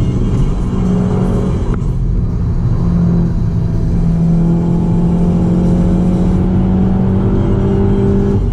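Seat Leon Cupra 290's turbocharged 2.0-litre four-cylinder engine under hard driving, heard from inside the cabin over tyre and road noise. The engine note dips briefly about two seconds in as the car slows, then climbs steadily as it accelerates.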